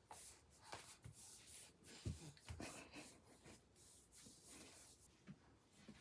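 Near silence: quiet room tone with faint rustling and a few soft taps.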